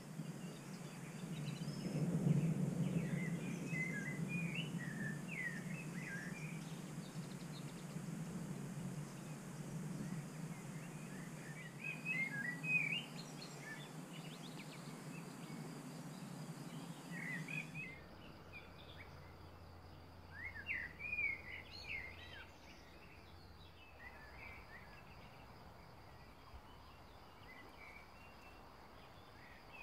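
Small birds singing and chirping in woodland trees, short twittering phrases every few seconds, over a low steady hum that cuts out about two-thirds of the way through.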